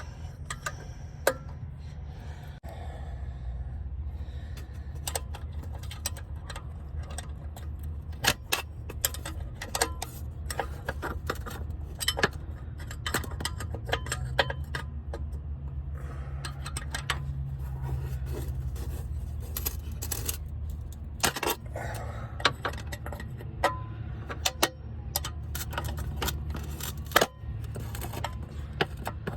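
Hand wrench or ratchet clicking in short, irregular runs as the exhaust bolts are tightened, with small metallic clinks of the tool, over a steady low rumble.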